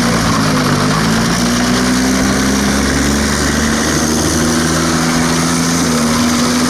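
Steady engine-like motor running at an even level, a few low, slightly wavering hums over a hiss.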